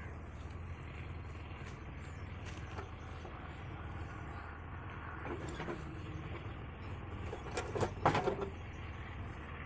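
JCB earthmover's diesel engine running steadily, with brief knocking and rattling about five seconds in and a louder burst of it about eight seconds in.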